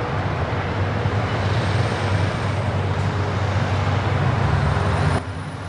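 Road traffic with heavy trucks driving past: a steady engine rumble and tyre noise that cuts off abruptly near the end.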